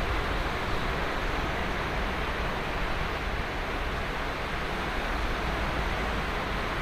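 Ocean surf breaking on a sandy beach: a steady wash of waves with a low rumble underneath, with no single wave standing out.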